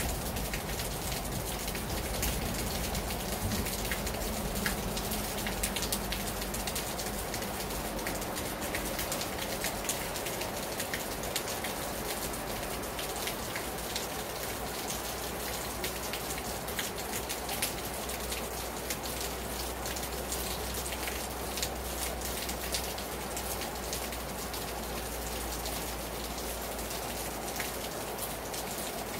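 Heavy rain falling hard on a terrace: a steady hiss of rain with the sharp taps of many drops striking the surface.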